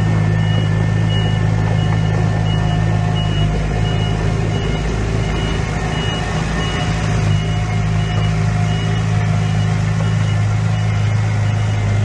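Heavy diesel engine of a construction machine running steadily, with a reversing alarm beeping about one and a half times a second.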